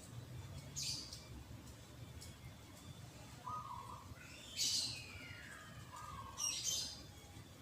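Birds calling: a few short high chirps, one call sliding down in pitch, and two brief low warbling notes, over a faint low background hum.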